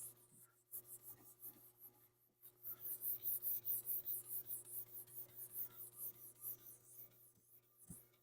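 Hand sanding of automotive paint with 800-grit sandpaper on a hard block: quick, scratchy back-and-forth strokes, about three a second, with a short pause about two seconds in. The paper is cutting away guide coat to level the paint.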